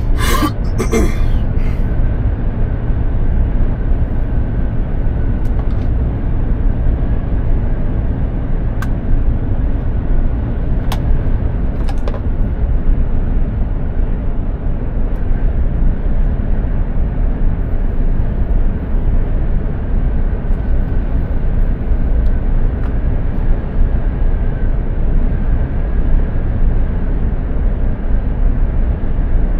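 Mercedes-Benz Actros 2763 truck on the move: a steady, deep engine and road drone with a faint high tone over it. A cluster of sharp clicks comes in the first second or two, and a few single clicks follow later.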